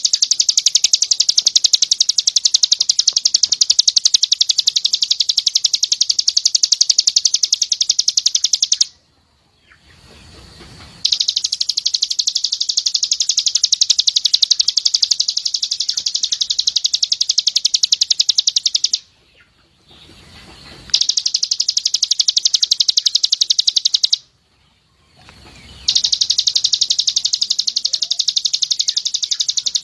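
Pleci (white-eye) singing a 'tembakan' song: long runs of very fast, high, repeated notes. The song stops three times for about two seconds each.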